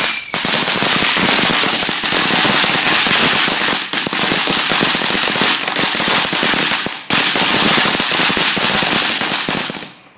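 A crackling firework going off: a dense, rapid, continuous crackle of tiny pops for about ten seconds, with a brief break about seven seconds in, dying away near the end.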